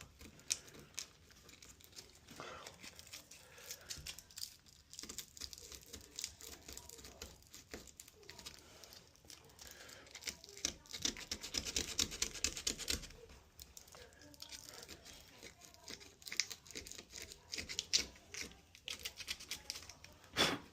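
Wood chisel paring and scraping wood from a door-edge mortise in a series of short scraping strokes, with small clicks. It rounds off the mortise's corners. The strokes are densest and loudest in a run about ten seconds in, and again near the end.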